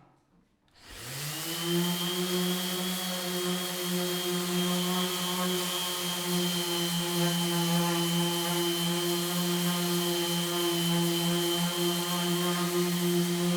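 An electric power tool's motor spins up about a second in and then runs at a steady speed, giving an even hum with a faint high whine.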